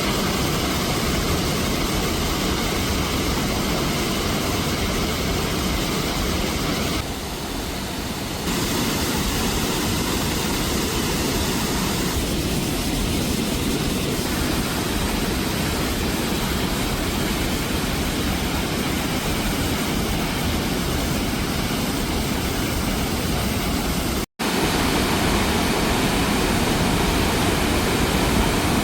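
Iguaçu waterfalls: a steady rush of heavy falling water, with a slight dip about seven seconds in and a momentary dropout about 24 seconds in.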